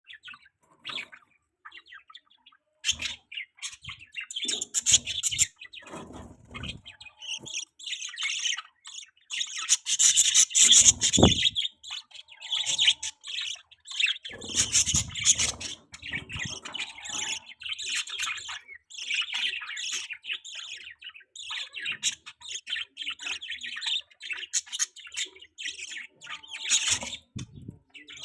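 Baby budgie chirping in rapid, high-pitched bursts of chatter, with a few low thumps mixed in.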